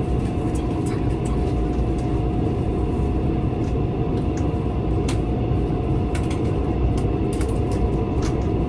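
Passenger train running, heard from inside the carriage: a steady low rumble with a constant hum and scattered faint clicks.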